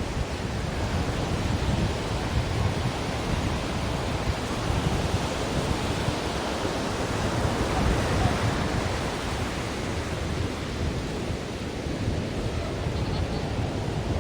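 Ocean surf: a steady, even wash of breaking waves with a low rumble underneath.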